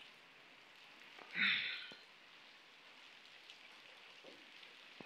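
Steady rain falling on a water-covered street, with one short, louder noise about a second and a half in.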